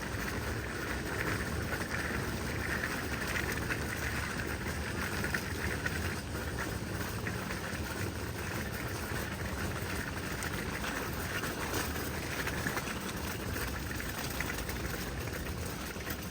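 Steady seaside ambience: wind and gentle sea waves make a continuous wash of noise, with a higher hiss that is strongest in the first few seconds.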